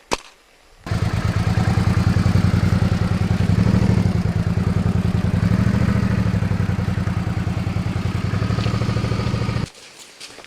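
Motorcycle engine running steadily with a fast, even beat, starting abruptly about a second in and cutting off suddenly near the end.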